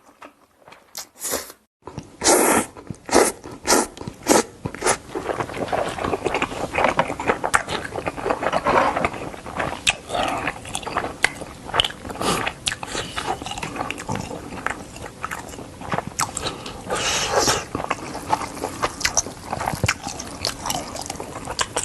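Close-miked wet chewing and smacking mouth sounds of someone eating instant ramen noodles. A few faint clicks come first, then the eating starts about two seconds in with a string of sharp smacks and carries on irregularly.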